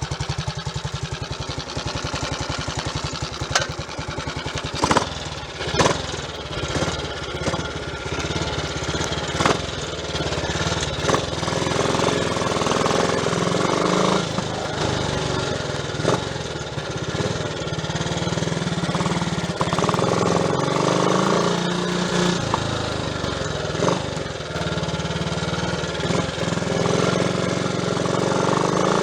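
Triumph Tiger Cub's single-cylinder engine running on a test ride after its loose distributor was clamped back, with scattered sharp knocks. It runs evenly pulsing at first, then gets louder after about ten seconds as it pulls harder.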